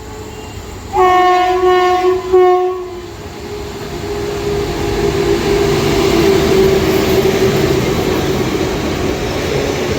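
Indian Railways train horn sounding a long blast followed by a short second blast, then the rumble of an approaching train building steadily in loudness, with a steady tone held over it.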